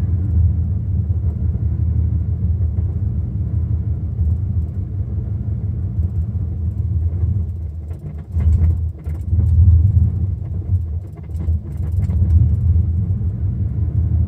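1992 Chevy truck engine idling roughly. Its level sags and picks back up a couple of times, a hunting, stumbling idle. The owner gets this idle with the engine computer hooked up and suspects the computer; it feels like a miss on one or more cylinders.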